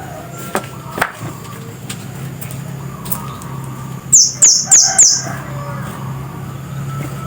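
Scarlet-headed flowerpecker giving four loud, sharp high chips in quick succession, each note sliding downward, over a steady low background hum.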